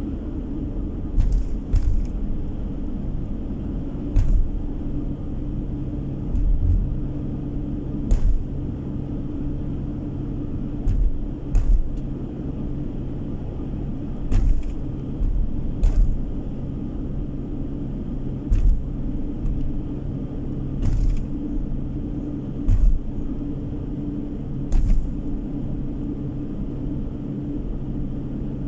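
A car driving, heard from inside: steady engine and road drone, with short knocks every second or two.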